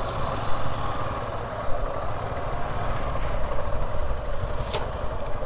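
Suzuki motorcycle's engine running steadily at low road speed, a continuous low rumble, with a short high squeak near the end.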